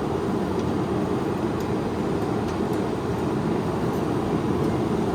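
Steady roar of a running forge. A few faint light ticks sit on top of it.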